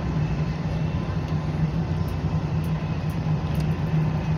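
Steady low rumble of a passenger train running at speed, heard from inside the car.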